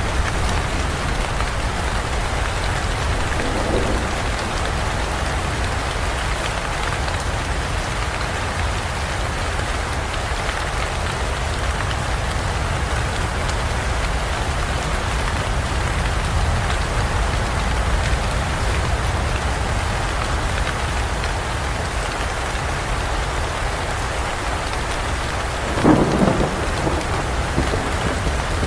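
Steady rain falling, with a low rumble of thunder underneath; a short, sharper clap of thunder near the end.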